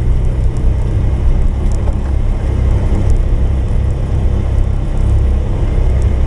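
Polaris 570's single-cylinder engine running steadily with a low drone while under way.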